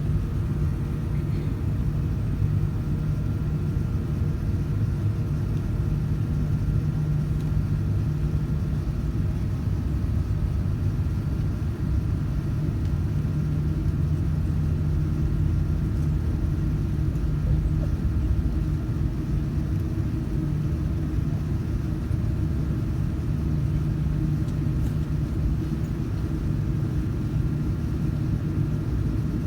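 Airbus A380 cabin noise heard from a passenger seat: the steady low drone of the jet engines and airflow, with a faint steady hum above it.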